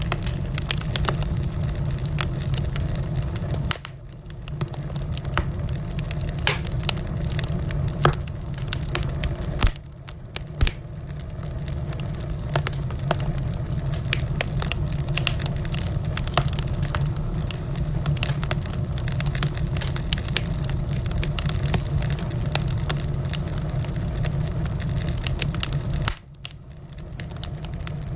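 Wood fire burning in a fireplace: a steady low rumble of the flames with frequent sharp crackles and pops. The rumble briefly drops away three times, about 4, 10 and 26 seconds in.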